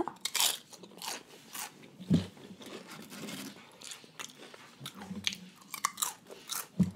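A person biting into and chewing fried wonton-chip nachos, close to the microphone: a bite right at the start, then a run of sharp, crisp crunches as the chips are chewed.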